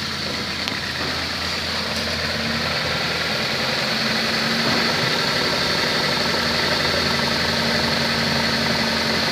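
2007 Dodge Caliber engine idling steadily in gear, with a faint steady high whine above the engine hum.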